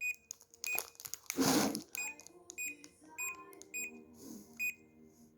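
A low-frequency electrotherapy massager beeping at each button press: about a dozen short, same-pitched electronic beeps at uneven spacing as the intensity is stepped up, with one loud noisy rustle about a second and a half in.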